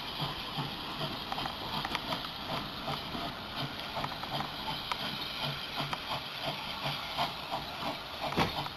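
Steam locomotive hissing steam, with a regular low pulse about three times a second and scattered clicks.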